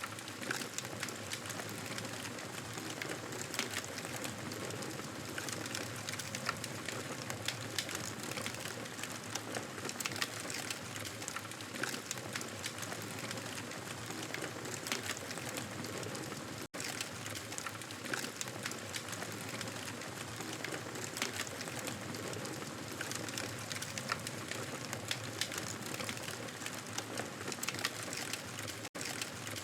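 Wood fire crackling and popping steadily, a dense hiss thick with small snaps, cut by two split-second dropouts about 17 and 29 seconds in.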